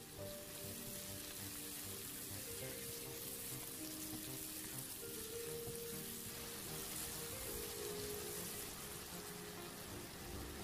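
Onions and diced bell peppers sizzling steadily in hot oil in a frying pan, under soft background music.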